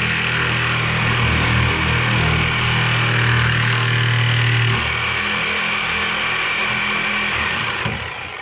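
A motor running steadily, a low pitched hum under a loud hiss, easing off near the end.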